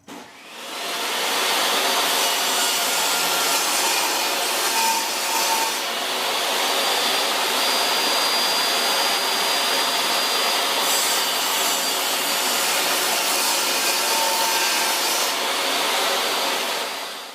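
Power saw cutting 3/4-inch plywood, running steadily through a long cut. It spins up over about the first second and winds down near the end.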